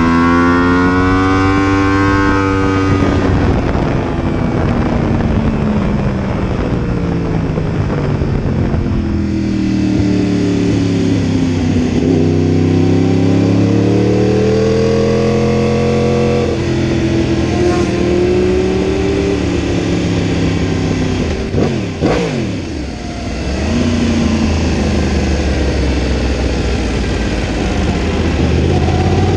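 Yamaha R1 sportbike's inline-four engine heard from on board. It pulls up through the revs at the start, then drops away, pulls hard again toward the middle and falls back. After a brief dip in revs about two-thirds through, it runs lower and steadier as the bike slows.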